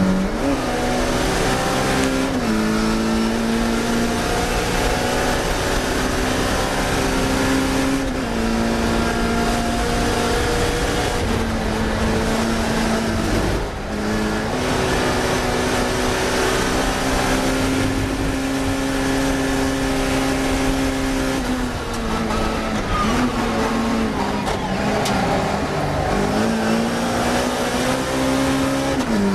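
Classic Mini racing car's engine running hard at high revs. Its pitch drops and climbs again several times as the driver lifts and changes gear.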